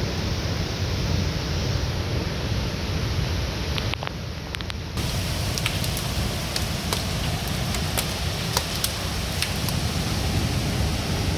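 Storm wind and heavy rain, with the wind buffeting the microphone in a deep rumble. The sound briefly drops about four seconds in, then many sharp ticks of precipitation striking surfaces begin.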